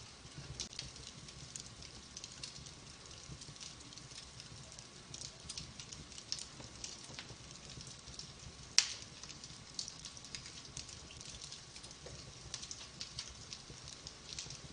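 Wood fire burning in a fireplace, with a steady scatter of small crackles over a soft hiss and one sharp, louder pop a little past halfway.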